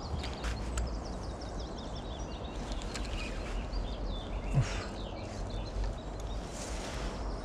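Small birds chirping against a steady low outdoor rumble, with a few faint clicks and one low thump about four and a half seconds in.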